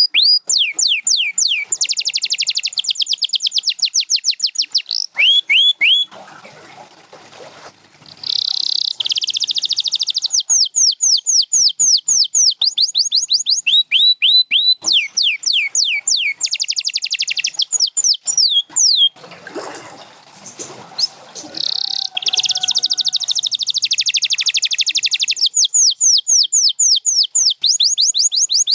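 Domestic canary singing: long phrases of rapidly repeated sweeping notes alternating with dense, fast trills, with two short breaks in the song, one about a quarter of the way in and one about two-thirds in.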